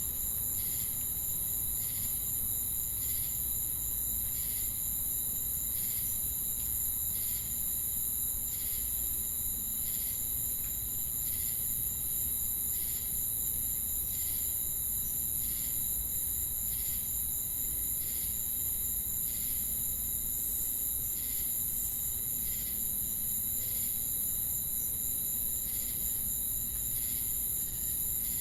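Night insect chorus of crickets and cicadas: a continuous high-pitched trill with a second insect chirping in a steady, even rhythm over it. A low background rumble sits underneath.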